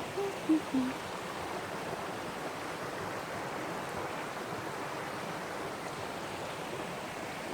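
Steady outdoor rushing noise with no clear tone. Near the start, a brief falling vocal sound, like a short hum.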